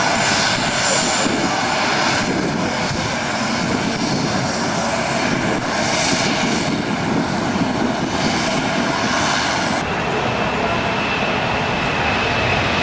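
Airliner engines running loudly and steadily at the airport. About ten seconds in the sound changes abruptly: the hiss drops and a steady high whine comes in.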